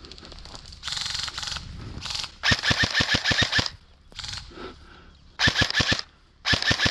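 Airsoft electric rifle firing three full-auto bursts of about ten shots a second, the longest just over a second, with a shorter burst of noise about a second in.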